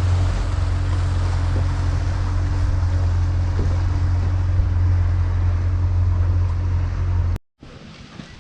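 A boat engine drones steadily at a low pitch, with wind noise over it. It cuts off abruptly about seven seconds in, leaving much quieter background sound.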